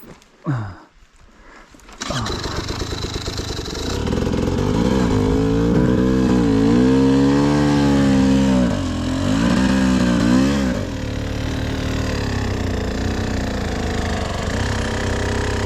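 Dirt bike engine starting up about two seconds in, revved up and down several times, then settling to a steadier, lower run.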